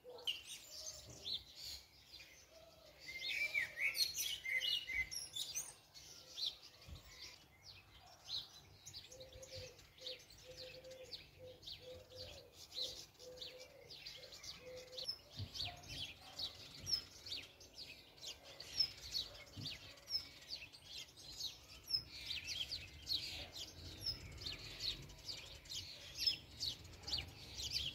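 Small birds chirping and twittering over and over, busiest a few seconds in, with a lower repeated note for several seconds in the middle.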